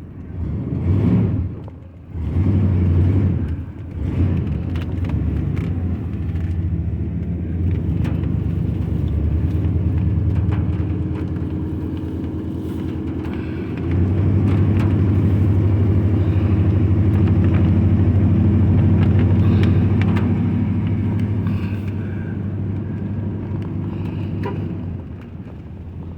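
Truck engine and road noise heard from inside the cab while driving: a steady low hum with brief swells in the first few seconds, growing louder and steadier from about halfway through.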